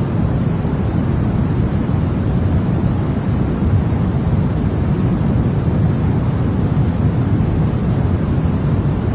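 Continuous white noise for baby sleep: an even, unchanging rushing hiss weighted toward the low end, so it sounds deep and rumbly.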